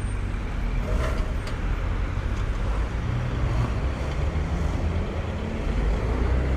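Road traffic on a city street: engines of passing vehicles running with a steady low rumble over tyre and road noise.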